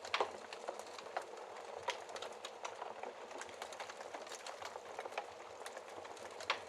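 Wood fire burning in a fireplace: a steady crackling hiss with irregular snaps and pops, the sharpest just after the start and again near the end.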